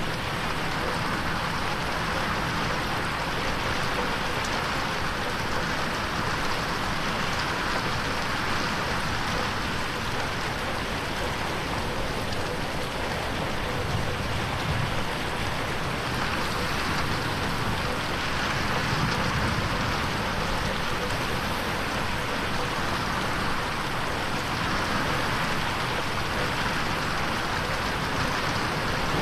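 Steady rain falling against a window, an even hiss of drops with no thunder.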